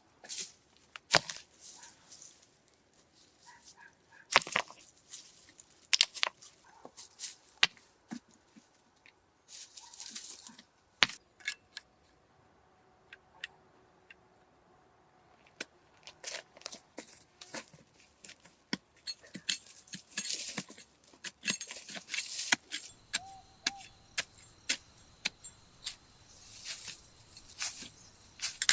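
Scattered sharp knocks and clicks at an irregular pace, with a few short bursts of rustling, as of hand work with building materials.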